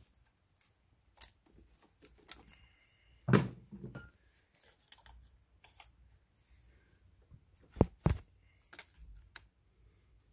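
Hand tools and metal parts clicking and clinking while loosening the diesel injector fuel-line fittings, with a louder metallic knock about a third of the way in and two sharp clicks near the end.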